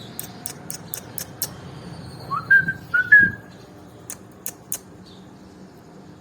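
Two short whistles, each rising quickly and then held, about two and a half and three seconds in, with sharp clicks before and after them: a quick regular run at the start and three more near the end.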